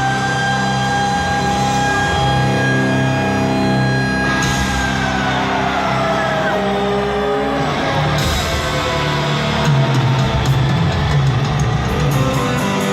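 Live rock concert music: electric guitar holding long notes that slide down in pitch around the middle, over steady bass and drums.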